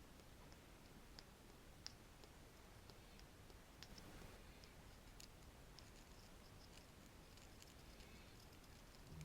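Very faint, irregular light tapping clicks with a little soft scratching on a small object, close to the microphone.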